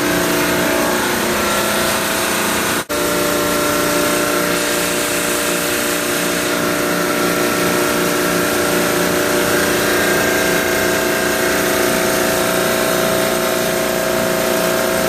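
Carrier reciprocating compressor running steadily, a machine hum with a fast even pulsing, just after a pump-down to return migrated oil to its crankcase. The sound drops out for a split second about three seconds in.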